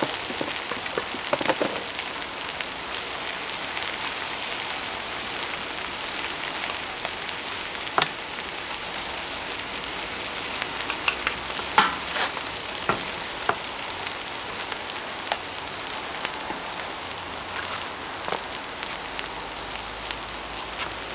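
Grated old-pumpkin pancakes frying in oil on a cast-iron pot-lid griddle: a steady sizzling hiss with scattered crackles and pops. The sharpest pops come about eight and twelve seconds in.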